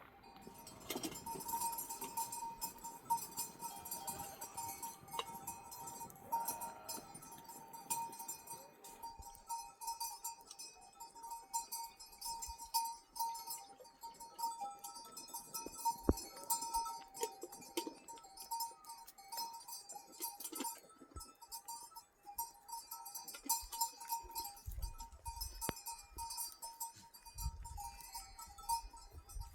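Livestock neck bells on a grazing flock of sheep and goats, clinking and ringing irregularly without pause as the animals move.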